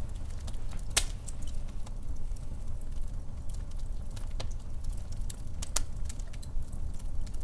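Wood fire crackling, with irregular sharp pops over a low steady rumble of burning; the loudest pop comes about a second in.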